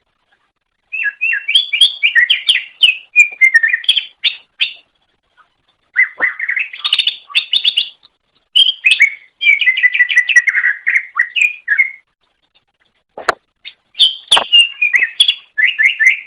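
Cucak ijo (green leafbird) singing in bursts of rapid, varied chirps and whistled notes, with short pauses between phrases. There are two sharp clicks near the end.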